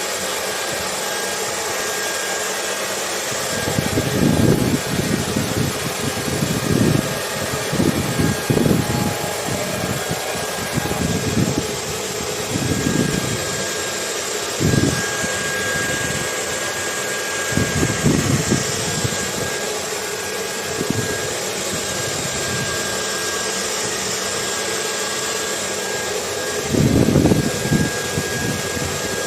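A hair dryer runs continuously, a steady rushing hiss with a thin, steady whine, mixed with ocean wind. Low rumbling gusts of wind swell and fade irregularly over it, the strongest about 27 seconds in.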